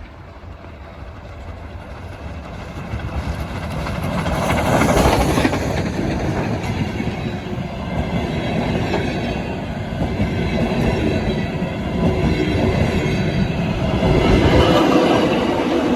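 Soviet Er-class steam locomotive ER-797-86 and its passenger train passing close by. The sound grows louder to a peak about five seconds in, then the carriages' wheels rumble and clatter over the rail joints, with some wheel squeal.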